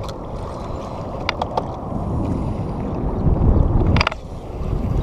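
Wind buffeting the microphone in a small boat on open water: a steady low rumble, with a few sharp clicks about a second and a half in and a louder cluster of clicks near four seconds.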